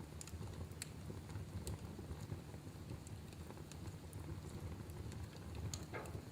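Wood fire burning in a fireplace: a steady low rumble of the flames with scattered sharp crackles and pops, and a brief hiss near the end.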